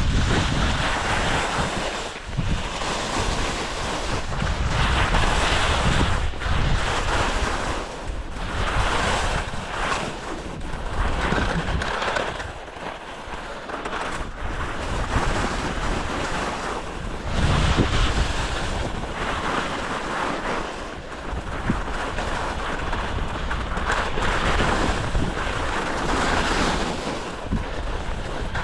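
Wind buffeting the microphone: a rushing, gusting roar that swells and eases every few seconds.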